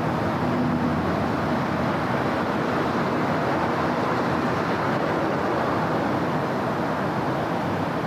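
Steady city road traffic: a continuous wash of car engines and tyre noise from a busy street, with no single vehicle standing out.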